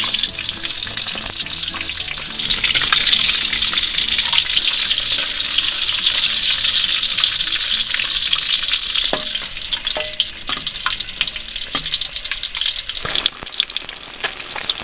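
Flour-battered fish frying in hot oil over a low flame: a steady sizzle with scattered crackling pops, growing louder about two and a half seconds in.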